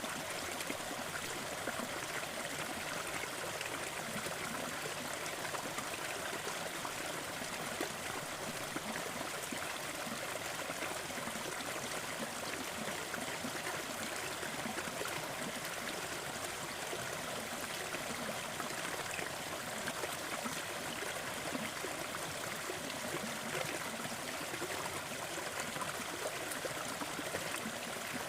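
Water of a small waterfall splashing and trickling over rocks in a steady, even rush.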